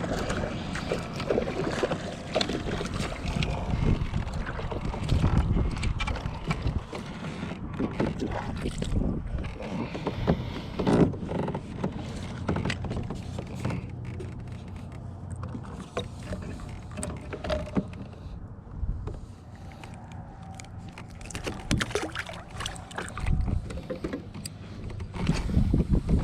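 Handling noise aboard a kayak: a low rumble of wind buffeting the microphone, with many irregular knocks and rustles, one louder knock about halfway through.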